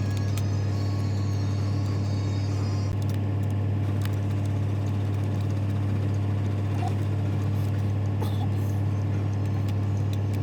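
A large diesel engine running steadily at constant speed: a deep, even hum with a few faint clicks over it.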